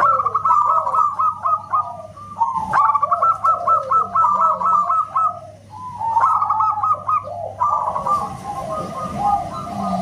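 Zebra doves (perkutut) cooing in rapid runs of short staccato notes with falling glides, several calls overlapping. There are brief pauses about two, six and eight seconds in.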